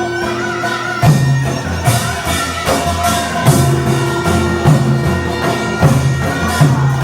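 Korean traditional folk music in the deotbaegi rhythm: a drum strikes about once a second, deep and heavy, under a sustained wavering melody line.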